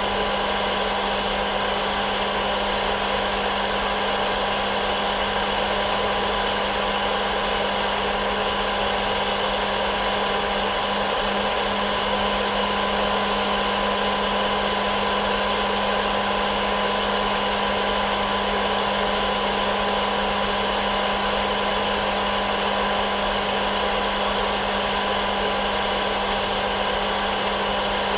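Hair dryer running steadily: an even rush of blown air with a constant low hum and a fainter higher whine, unchanging in level.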